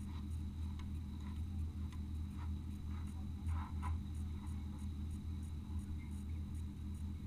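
Muffled low rumble of an off-road vehicle driving, with scattered knocks and rattles.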